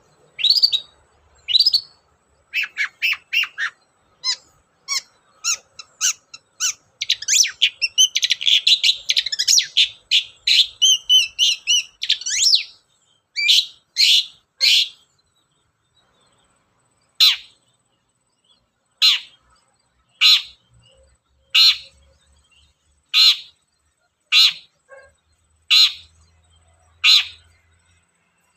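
Long-tailed shrike (cendet) singing: a fast, varied run of chattering, squawking phrases for the first dozen seconds, then a string of single sharp calls about every second and a half.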